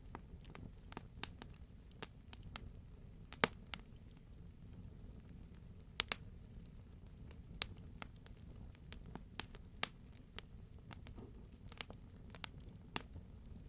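Campfire crackling: irregular sharp pops and snaps of burning wood, a few louder pops among many small ones, over a low steady rumble of the flames.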